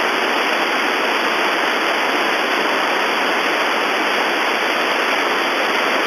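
Steady hiss of radio static on an air traffic control frequency recording, with no one transmitting.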